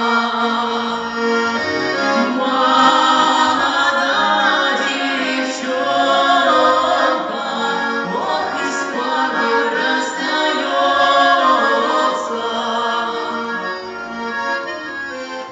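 Song: singing with instrumental accompaniment, continuous throughout.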